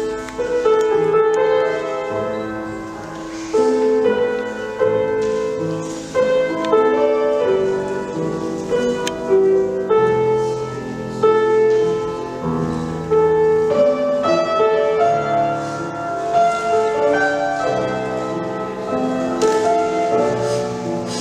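Solo piano playing a continuous, measured piece: accompaniment music for ballet barre exercises.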